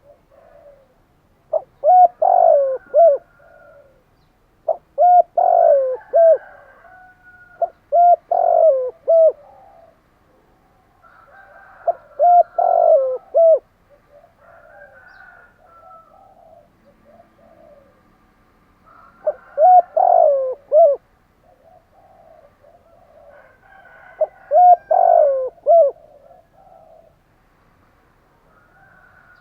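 Spotted dove cooing: about six phrases of several short, low hooting notes each, a few seconds apart, with fainter calls in between.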